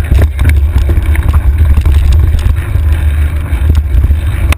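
Wind buffeting the microphone of a handlebar-mounted camera on a mountain bike in motion, a loud, constant low rumble. Frequent clicks and rattles from the bike jolting over rough trail run through it.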